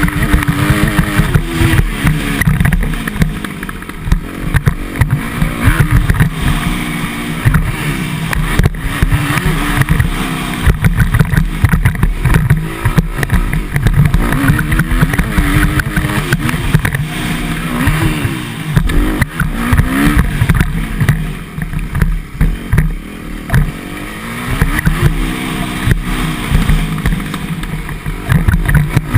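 Motocross dirt bike engine being ridden hard, its pitch rising and falling again and again as it revs and shifts gears, over a heavy low rumble.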